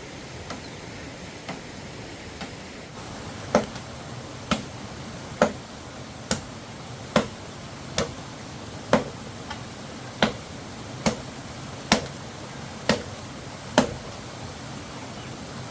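A steady series of sharp knocks, about one a second: fainter at first, then a dozen louder strikes from a few seconds in until near the end.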